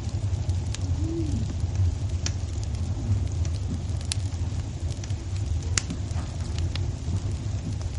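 Log fire in a fireplace burning with a steady low rumble and scattered sharp crackles and pops, about one every second or so.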